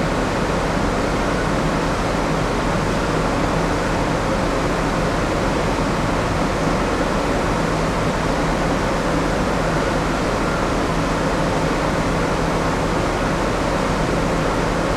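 Steady rush of air-conditioning and ventilation aboard a moored passenger-cargo ship, with a low machinery hum underneath.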